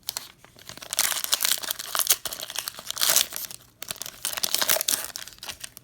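Plastic wrapper of a trading card pack being torn open and crinkled in the hands. Dense crackling starts about a second in, pauses briefly near the four-second mark, then picks up again.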